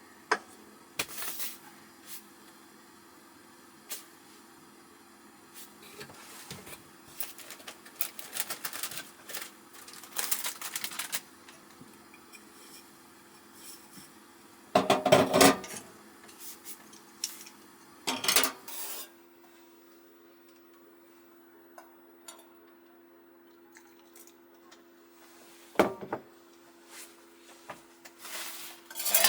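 Cookware and utensils being handled: scattered clinks, knocks and clatter, with louder bouts of handling about halfway through and near the end, over a faint steady hum.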